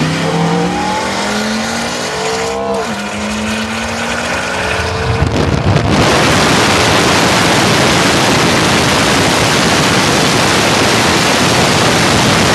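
A performance car's engine accelerating hard, its pitch climbing, dropping once at a gear change about three seconds in, then climbing again. About six seconds in, a loud, even rushing noise takes over and drowns out the engine.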